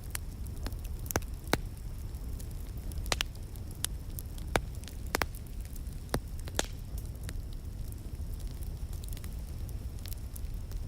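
Wood fire burning in a fireplace: a steady low rumble with scattered sharp crackles and pops, more of them in the first part.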